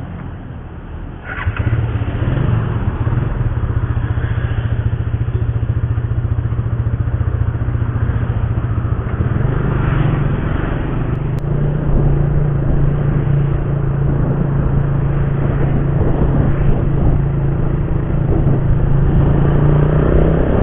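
Motorcycle engine running while riding, a steady hum that jumps in loudness about a second and a half in and climbs in pitch around the middle as the bike speeds up.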